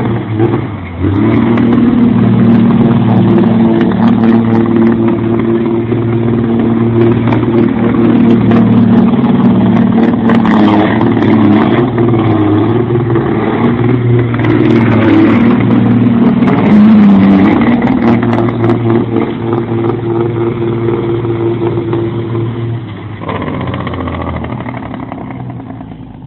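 Heavy truck engine running hard and steady, its pitch wavering under changing load, then easing off about 23 seconds in.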